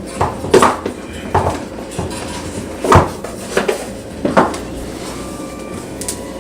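Cardboard product box being opened and handled as the Google Home Hub is taken out: a string of about five knocks and rustles, the loudest about three seconds in.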